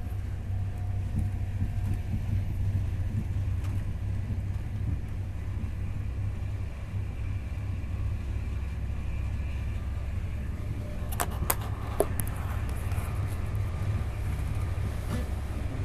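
Steady low rumble of a moving passenger train heard from inside the carriage, with a few sharp clicks or knocks about eleven to twelve seconds in.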